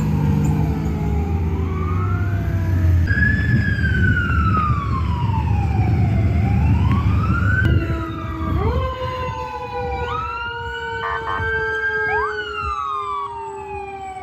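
Fire engine siren wailing in slow rising and falling sweeps over the heavy rumble of the truck's engine. About eight seconds in the rumble drops away and several siren tones overlap, some sliding slowly down in pitch as they move off, with a brief rapid pulsing burst near the middle.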